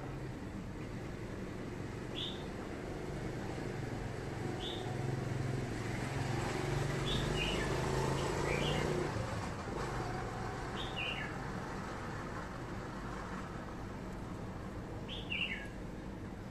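A small bird chirping: short, high, falling notes, singly or in quick pairs, every few seconds. Under it runs a low hum, likely distant traffic, that swells between about four and nine seconds in.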